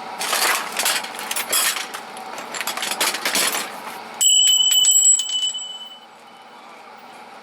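Metal hand tools and sockets clinking and rattling as they are handled and sorted. About four seconds in, a bright bell-like ringing with rapid, even strikes starts suddenly and dies away after a second or two.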